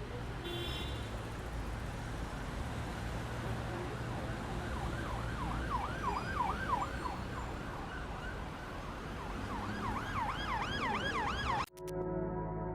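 An emergency-vehicle siren in a fast yelp, its pitch sweeping up and down about three times a second, over a steady background rumble. It comes in two stretches, then cuts off abruptly shortly before the end, and music with held tones follows.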